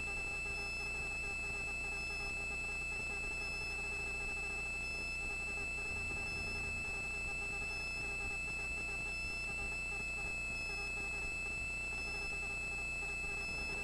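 Helicopter intercom audio with no one talking: a steady high-pitched whine over a low hum, unchanging throughout.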